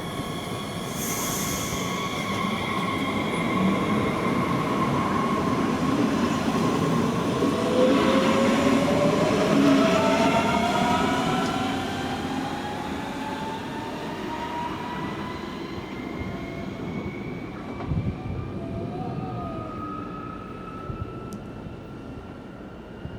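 Electric train running through the station, its motors whining with several tones that rise in pitch as it gathers speed. It is loudest about a third of the way in and then fades away.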